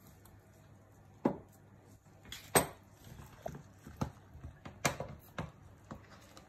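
Wet squelches and sharp slaps of fingers pulling the guts out of a raw muttonbird (sooty shearwater) carcass, coming irregularly about half a dozen times, the loudest about two and a half seconds in.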